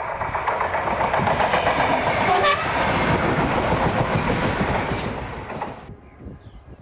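Freight train passing close by, with loud rolling noise and wheel clatter over the rail joints. A short horn note falls in pitch about two and a half seconds in. The sound cuts off abruptly near the end.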